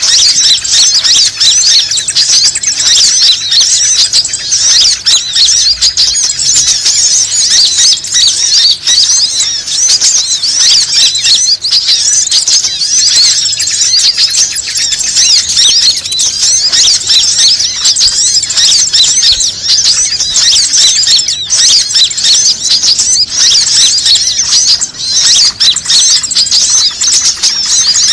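Bird-lure recording: a dense, continuous chorus of many small birds' quick, high-pitched chirps and twitters, loud and unbroken.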